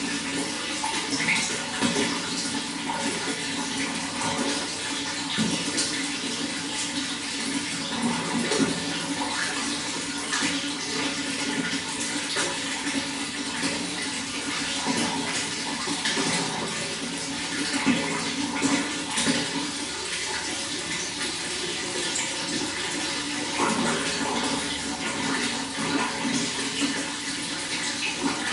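Running water flowing and splashing steadily, with many small bright splashes and gurgles through an even rushing.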